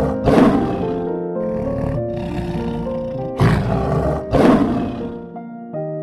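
Lion roaring: three loud, short roars, one just after the start and two about a second apart past the middle, over background music.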